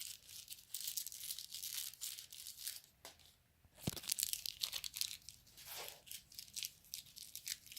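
Quiet, irregular crinkling and crackling with many small clicks, as toy figures and small plastic pieces are handled close to the microphone.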